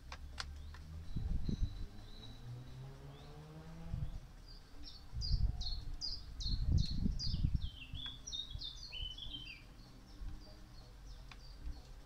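A songbird singing a fast run of short, high, downward-sweeping notes for several seconds, stepping lower into a quicker trill partway through. Under it come bursts of low rumble, the loudest sound, and a few light clicks near the start.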